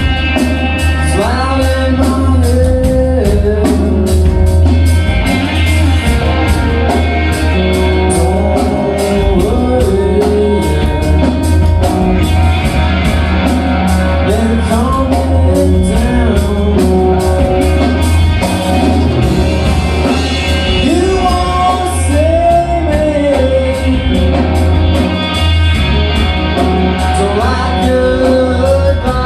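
Live rock band playing loudly: a singer over drums, bass and guitar, with a steady, even drumbeat.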